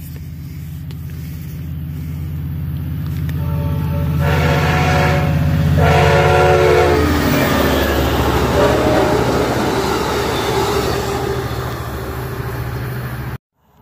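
Amtrak passenger train's diesel locomotive approaching with a steady engine drone and sounding its horn, two blasts starting about three and a half seconds in, the second ending with the pitch dropping slightly as it passes. The train then rushes past close by with wheels and cars rumbling over the rails, and the sound cuts off abruptly near the end.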